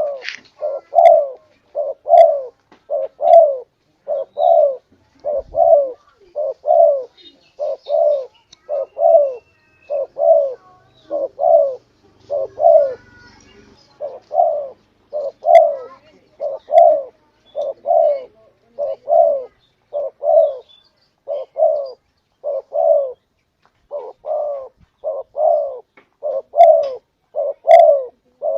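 Spotted dove (tekukur) cooing in a steady run of short low coos, about one a second, with a brief pause about twelve seconds in: a long lure-call recording.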